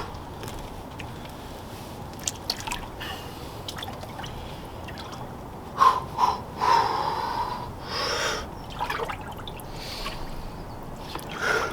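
Water splashing and dripping as a person gets into an ice-cold plunge tub, with sharp gasping breaths from about halfway through.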